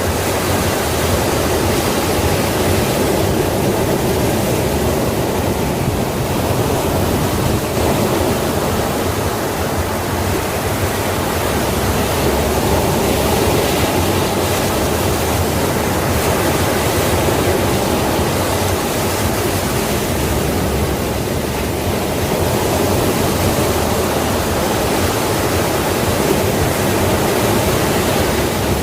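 Sea waves breaking and washing on the shore in a steady, continuous rush, swelling and easing every several seconds.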